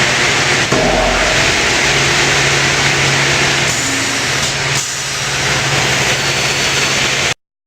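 Steady loud industrial machinery noise: a dense hiss with a low hum, cutting off abruptly near the end.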